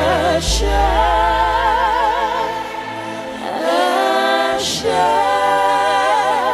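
Gospel worship music: voices sing two long held phrases with vibrato, over sustained low bass notes, with a short break between the phrases a little past halfway.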